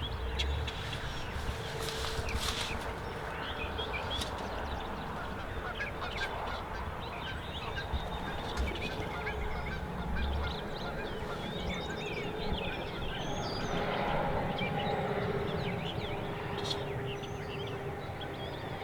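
Outdoor morning birdsong: many small birds chirping throughout, with honking bird calls among them, strongest a little past the middle.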